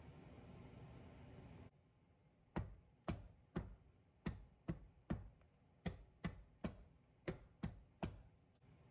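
A series of about a dozen sharp taps or knocks on a hard surface, roughly two a second and slightly uneven, starting a couple of seconds in after a steady background hiss cuts off.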